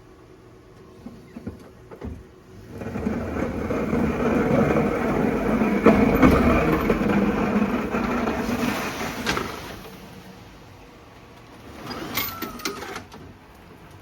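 A vehicle's noise swells up about three seconds in, holds for several seconds and fades away, followed near the end by a short burst of clattering with a thin ringing tone.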